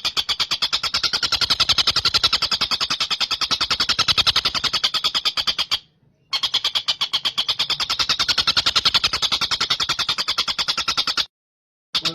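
Looped recording of a tengkek buto kingfisher calling: a fast, even rattle of sharp high notes, about ten a second. It breaks off briefly about six seconds in and cuts to dead silence near the end.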